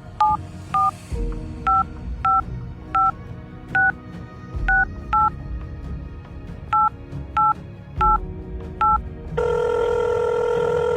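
Telephone keypad dialling tones: about twelve short two-tone beeps at uneven spacing as a number is dialled, then a steady tone from the line for the last second and a half.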